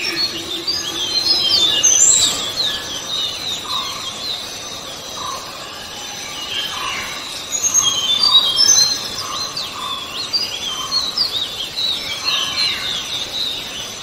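Forest birds chirping: dense clusters of short, high, falling chirps, with a lower note repeated about once a second through the middle stretch.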